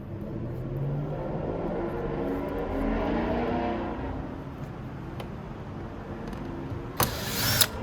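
Steady mechanical whirring that swells a little midway. Near the end a cordless power screwdriver starts up loud.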